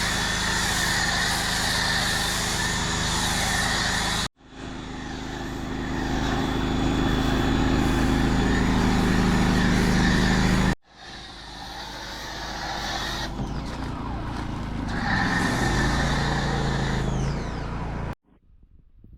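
Steady motor drone with a constant hum, broken into three stretches that each cut off abruptly.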